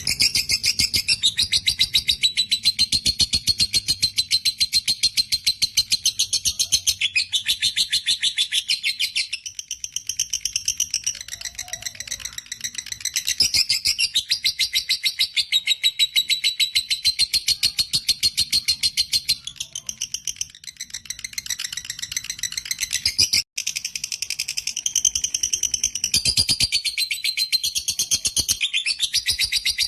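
Lovebird chattering in a long, fast trill of high, rattling notes, the extended 'ngekek' song that keepers prize. The trill breaks off briefly about two-thirds of the way through.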